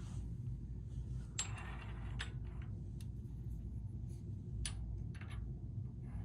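A few light clicks and clinks, scattered a second or so apart, over a steady low hum.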